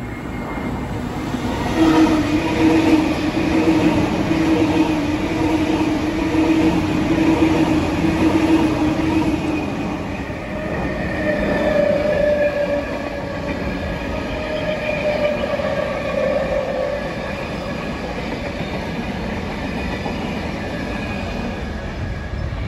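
Sydney Trains double-deck electric passenger train passing, steady running noise with whining tones that step up in pitch about ten seconds in.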